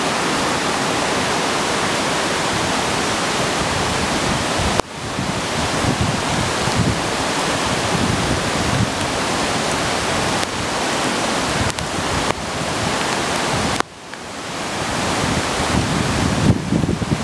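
Typhoon wind: a steady rush of storm noise, with gusts buffeting the microphone in low rumbles. The noise drops sharply about five and fourteen seconds in and builds up again.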